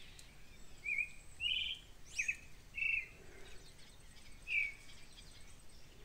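Birds calling outdoors: a scattered series of about six short chirps over a few seconds, some of them sharp downward-sweeping notes.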